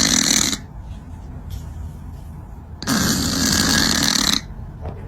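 Loud snoring: two long, rasping breaths about three seconds apart.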